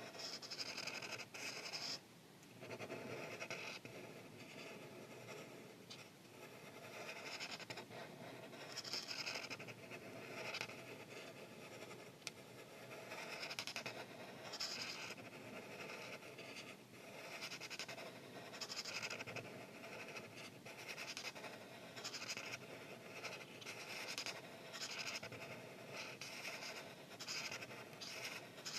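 Art marker tips stroking across paper, a quiet scratchy rubbing in a run of strokes, about one every second or two, with brief pauses between them.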